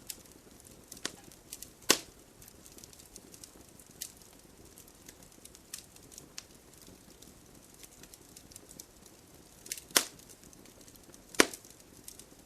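Wood campfire crackling: sparse snaps and pops over a faint hiss of burning, with three louder pops about two seconds in, at ten seconds and near the end.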